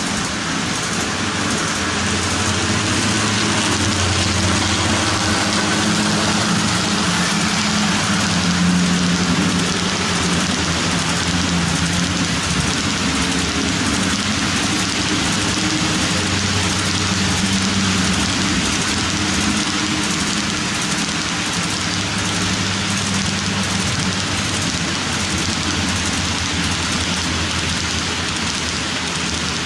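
HO-scale model train of covered hoppers rolling steadily around the layout: a continuous rushing of wheels on track with a low motor hum that swells and fades.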